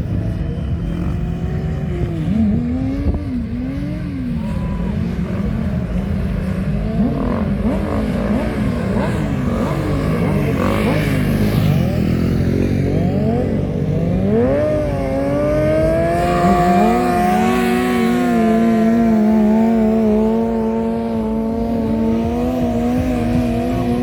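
Racing motorcycle engines accelerating hard, several overlapping, their pitch climbing and dropping repeatedly as they shift up through the gears. Later one steadier, high engine note is held for several seconds.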